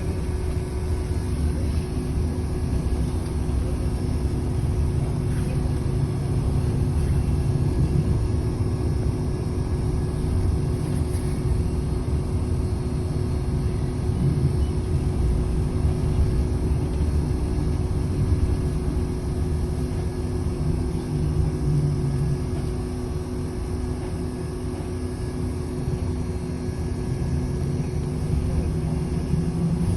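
Steady engine and road rumble heard from inside a moving city bus, with a constant low hum that swells and eases a little as the bus moves.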